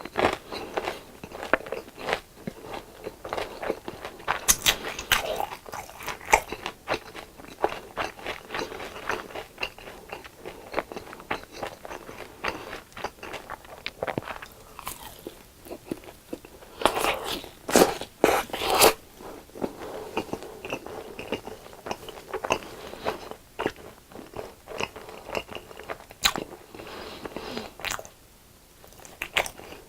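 Close-miked crunchy bites and chewing of crisp deep-fried food, with sharp crackling crunches in an irregular run and a loud cluster of crunches a little past the middle.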